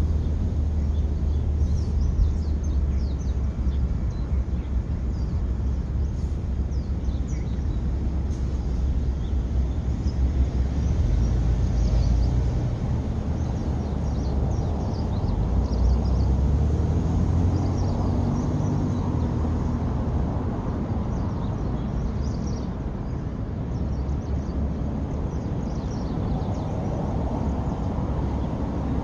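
A steady low rumble of outdoor background noise, with frequent short, faint high bird chirps scattered through it.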